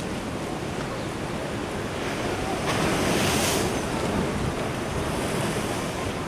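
Ocean surf washing in steadily, with one wave surging up louder about three seconds in; wind buffets the microphone.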